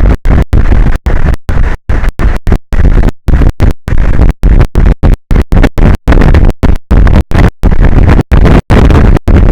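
Wind on the outdoor camera microphone, overloading it into a loud, rough rumbling noise. The sound is cut by sudden, irregular dropouts to silence about three times a second, like a stuttering audio feed.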